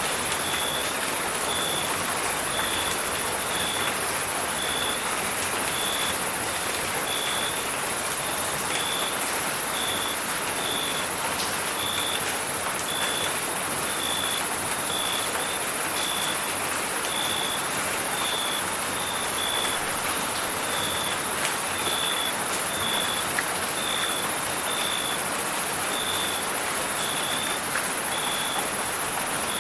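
Steady rain hissing, with a cricket chirping evenly, a short high chirp about once a second.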